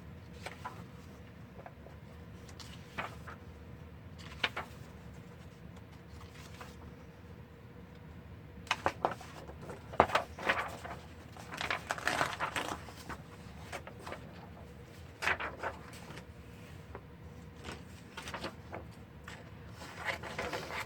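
Paper being handled: short bursts of rustling and crinkling with a few light clicks and scrapes, busiest around the middle.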